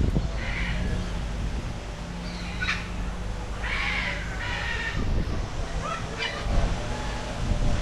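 A few short animal calls with a bird-like ring, one of them longer about four seconds in, over a steady low hum.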